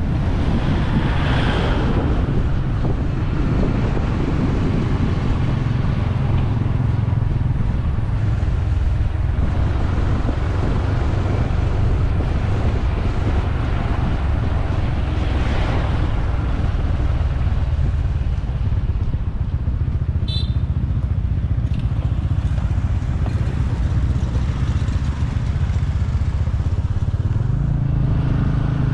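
Motorbike engine running steadily while riding, with a constant low rumble of wind and road noise. Something swells and fades briefly twice, and a short high-pitched sound comes about two-thirds of the way through.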